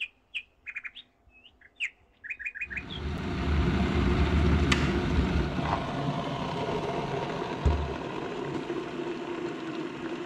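Small birds chirping: short, high notes in quick runs. About three seconds in, a steady rushing outdoor noise with a low rumble comes up and covers them.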